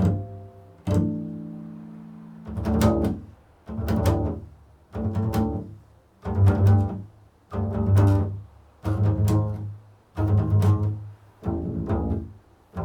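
Improvised solo music on a deep string-like instrument: two low plucked notes ring out and fade, then a run of swelling low notes follows at about one a second.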